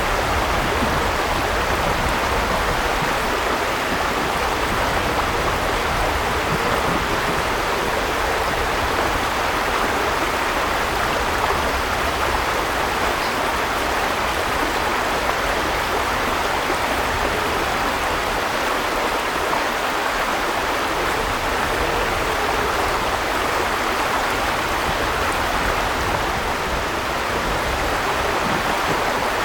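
River water flowing over rocks, a steady rushing.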